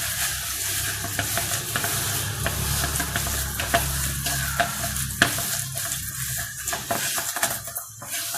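A spoon stirring and scraping a thick, wet spice paste in a bowl, mixing a chicken marinade, with a few sharp clinks of the spoon against the bowl.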